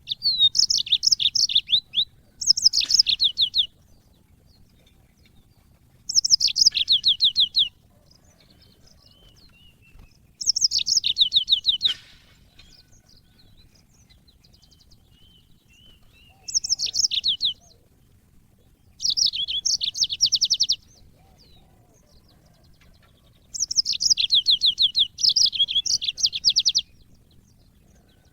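Yellow-fronted canary (Mozambique serin) singing: about seven short phrases of fast, rapidly repeated high notes, each one to three seconds long, separated by pauses of a few seconds.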